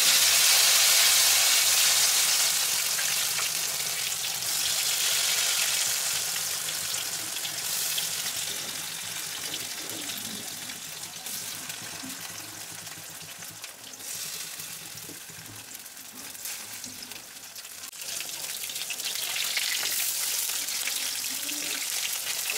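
Batter-coated eggplant pieces frying in hot mustard oil in a kadhai: a loud sizzle that eases over the first few seconds into a steady sizzling hiss, which swells again near the end.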